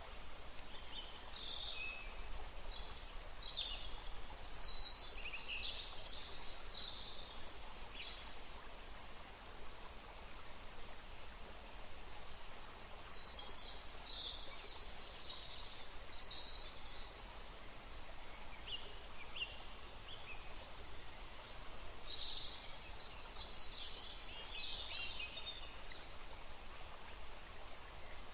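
Woodland ambience: songbirds singing in bouts of quick, high chirps over a steady background hiss. The song comes in three spells, near the start, in the middle and again later on.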